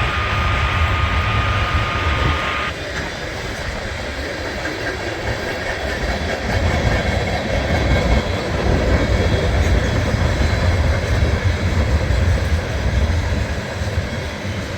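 Norfolk Southern coal train passing: the railcars rumble and clack along the rails, growing louder about six seconds in. A steady high tone with hiss cuts off suddenly about three seconds in.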